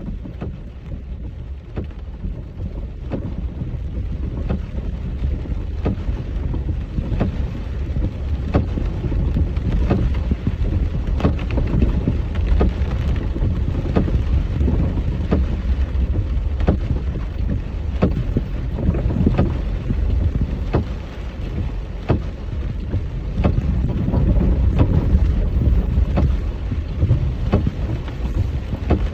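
Rain with wind buffeting the microphone in a low, steady rumble, and sharp taps of raindrops striking close to the microphone about once or twice a second.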